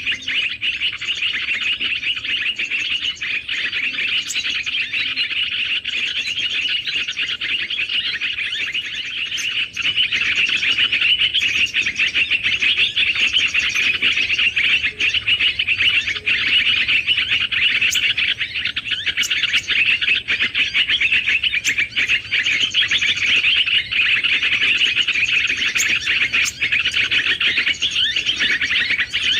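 Dense, unbroken twittering of many small birds calling at once, with scattered sharp clicks.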